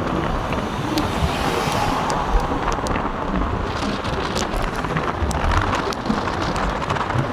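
Steady rain falling, with many single drops ticking sharply close by, over a continuous low rumble.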